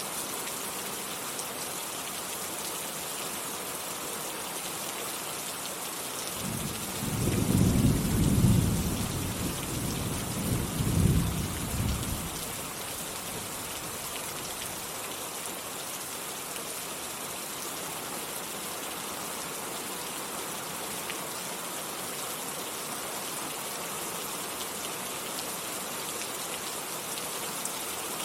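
Steady rain falling with a hiss, and a roll of thunder about six seconds in that rumbles for around five seconds, peaking twice before it fades.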